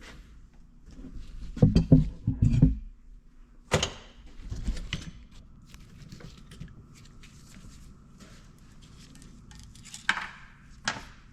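Metal tools and engine parts being handled on a workbench: a few dull thuds, then sharp metallic clinks, with quieter handling noise in between.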